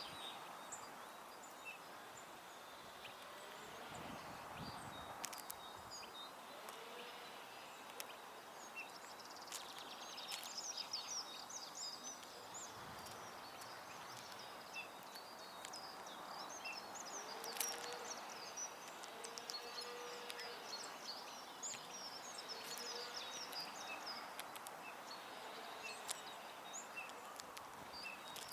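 Small songbirds at a feeder chirping and twittering: many short, high calls scattered throughout over a steady, faint background hiss, with a few sharp clicks.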